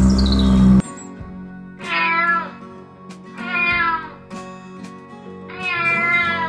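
A domestic cat meowing three times, each call under a second long with its pitch bending, over background music. Before that, a loud rumbling sound with a falling whistle cuts off abruptly just under a second in.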